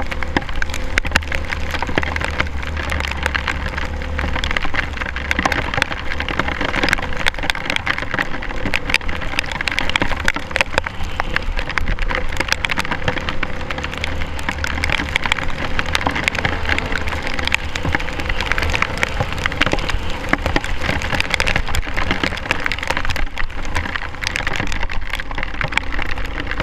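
Rain pattering and crackling densely on a GoPro camera housing, over a steady low rumble.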